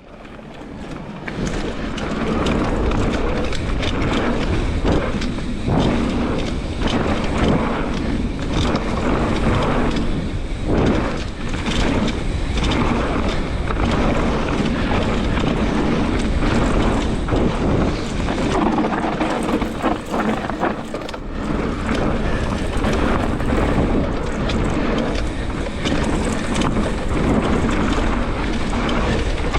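Mountain bike being ridden fast on a dirt trail: tyres rolling over dirt, with frequent knocks and rattles from the bike over bumps and steady wind buffeting the microphone.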